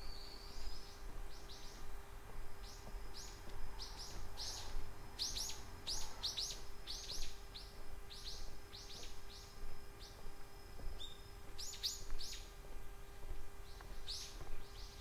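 Small songbirds chirping: many short, high, falling chirps, often in quick runs of two to four, over a faint steady hum.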